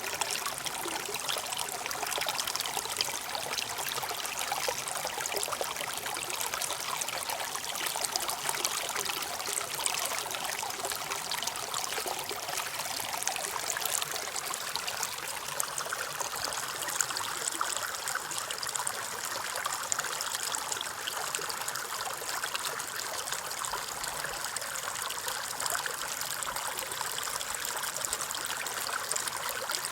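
A stream running steadily, with a continuous trickling, splashing flow of water.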